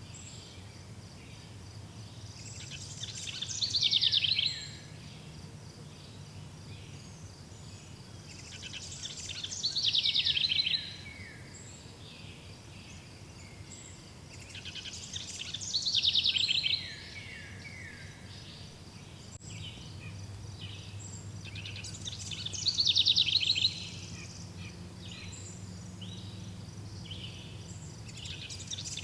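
A songbird repeating the same song phrase about every six seconds, each a quick run of notes that ends in a fast trill and lasts under two seconds. Behind it, an insect chirps steadily at a high pitch over a low, steady outdoor rumble.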